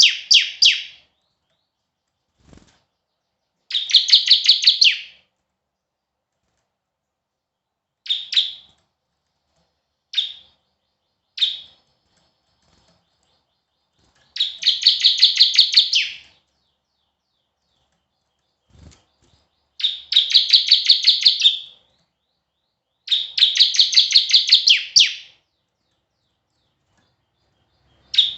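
A small songbird singing in repeated bursts of fast, high, chattering notes, each burst a second or two long with a few short single calls between them. Two faint knocks are heard during the pauses.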